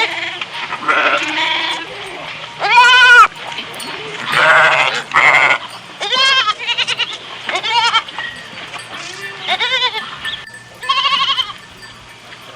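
Goats bleating: about eight separate wavering calls with short gaps between them, the loudest about three seconds in.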